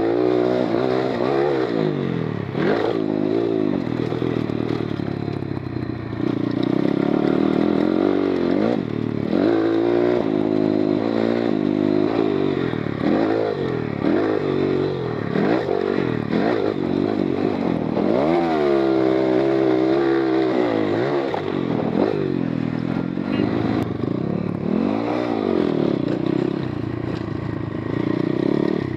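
GIO X33 140cc oil-cooled single-cylinder four-stroke pit bike engine being ridden hard, its pitch rising and falling over and over as the throttle is opened and closed.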